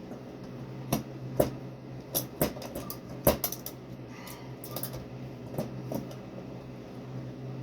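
Irregular light clicks and knocks, about a dozen scattered through, loudest about a second and a half and three and a quarter seconds in, over a steady low hum.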